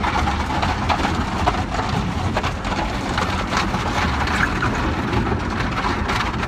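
Water from an automatic car wash drumming on a car's body and windows, heard from inside the cabin, with a steady low rumble underneath.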